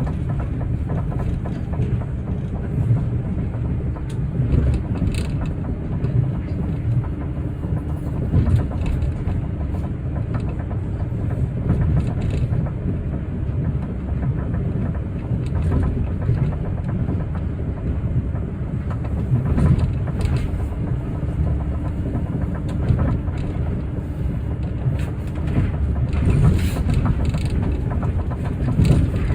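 Cabin running sound of an Osaka Metro New Tram, a rubber-tyred automated guideway train, travelling at steady speed. It is a continuous low rumble with a faint steady hum at times and scattered short clicks and knocks from the guideway.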